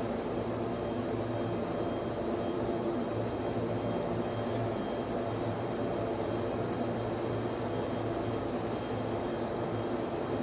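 Steady drone of server room equipment and its cooling fans: a constant hum with a faint high-pitched whine above it.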